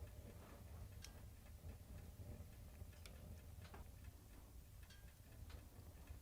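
Faint, irregular crackles and pops of a wood fire burning in a fireplace, over a low steady rumble.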